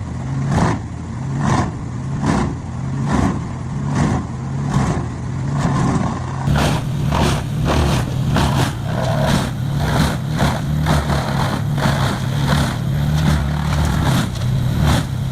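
Large diesel-powered industrial wood chipper running under load, its engine droning steadily while wood is fed in and chipped with a cracking strike about every second. The strikes come quicker and less evenly in the second half.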